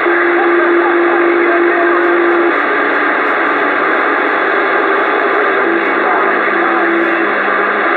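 A CB radio receiver on channel 19 with a station keyed up over it: a loud, steady rush of static. A held steady tone runs for the first couple of seconds, and another lower tone comes in near the end.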